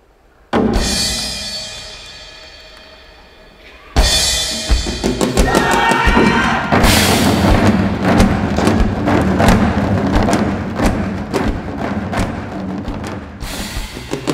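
Korean buk drums and a drum kit in a percussion performance. A loud crash about half a second in rings and fades for about three seconds. From about four seconds there is fast, dense ensemble drumming.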